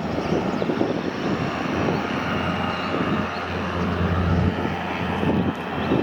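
Cessna Grand Caravan EX's Pratt & Whitney PT6A turboprop engine running on the ground: a steady low drone with a faint high turbine whine, growing a little louder over the first few seconds.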